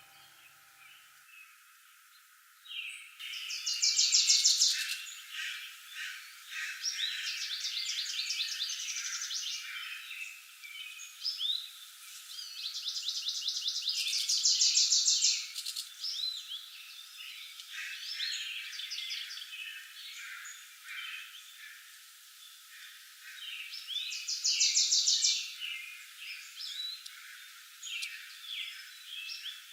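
Woodland birds singing, many short chirps and phrases overlapping. One loud rapid trill comes in about three seconds in and repeats roughly every ten seconds.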